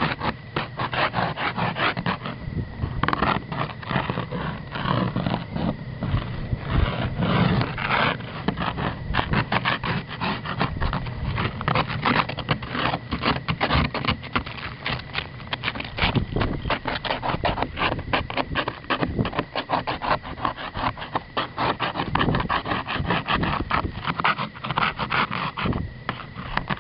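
Ice glaze from freezing rain being scraped with rapid, repeated strokes, many per second, with no let-up.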